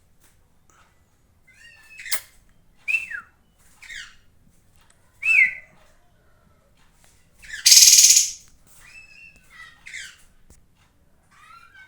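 Kapas tembak songbird calling: a string of short, sharp, down-slurred whistled notes about once a second, with one loud harsh rasping call a little past halfway.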